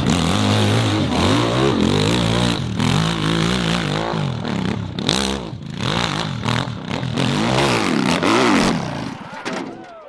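Racing motorcycle engines revving hard, the pitch climbing and dropping again and again, fading away about nine seconds in.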